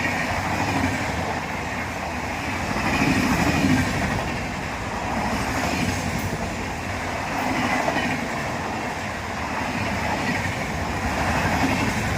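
Indian Railways passenger train running past on the track: a steady rumble of wheels on rails with some clickety-clack, swelling and easing about every two and a half seconds.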